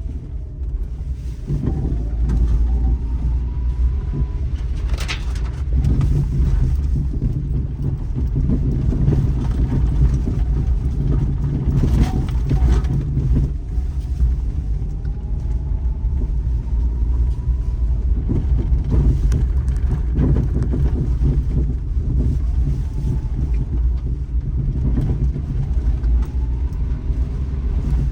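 Daihatsu Terios Kid driving along a forest road: a steady low rumble of engine and tyres, with faint rising whines a few times. There are brief sharp knocks about five seconds in and again about twelve seconds in.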